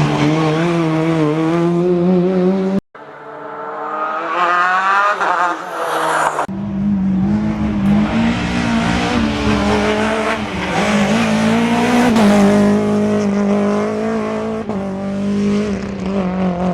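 Rally car engines at high revs on a special stage, with some tyre squeal. After a sudden cut about three seconds in, one engine note climbs steadily as a car accelerates. Another cut follows, then a long, fairly steady engine note with slight swells in pitch.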